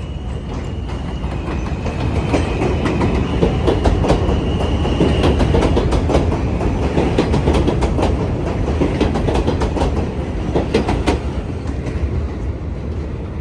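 New York City subway train running through the station, its wheels clacking over rail joints over a steady rumble. A faint high whine sounds over the first few seconds, and the noise swells to its loudest partway through, then eases as the train moves on.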